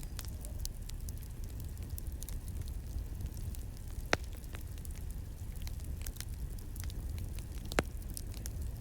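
Campfire crackling: a steady low rumble of burning wood with scattered small crackles and two louder pops, one about four seconds in and one near the end.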